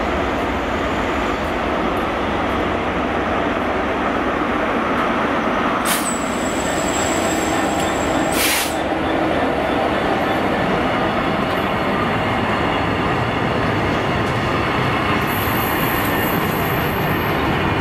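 Class 66 diesel freight locomotive passing with its EMD two-stroke V12 running, then a rake of covered box wagons rolling by with steady wheel-on-rail noise. Two brief sharp noises come a few seconds apart around the middle, and a thin high whine sets in near the end.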